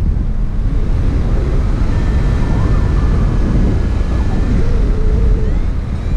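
Strong wind buffeting the microphone: a loud, steady low rumble, with faint thin tones drifting in and out about halfway through.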